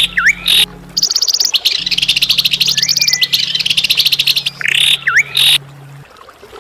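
A songbird singing a fast, harsh chattering trill mixed with sharp, piercing notes and a short dipping whistle. The phrase repeats. A steady low hum runs underneath and stops about six seconds in.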